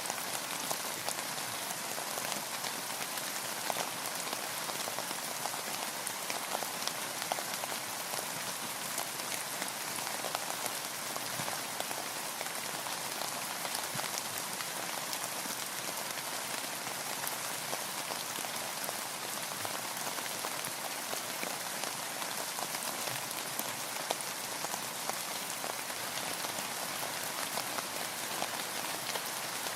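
Steady rain falling, an even hiss of many small drops with fine individual ticks scattered through it.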